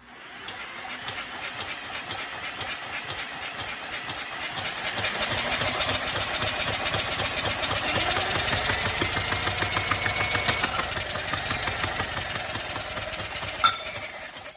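A drill spinning a Briggs & Stratton 10 hp single-cylinder engine over by its crankshaft, pushrods removed. The drill speeds up about five seconds in, runs steady, and stops with a click near the end. No knock comes through, a sign that the connecting rod, crankshaft and piston are probably okay and that the earlier knock most likely comes from the cam or a follower.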